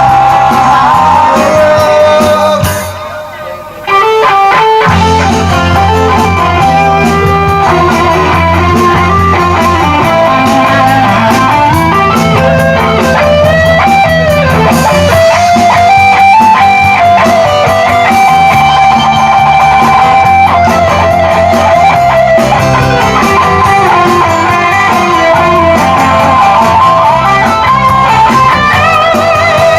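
Live rock band playing an instrumental break: a lead guitar plays a melody over bass guitar and drums. About three seconds in, the band cuts out for about a second, then comes back in together.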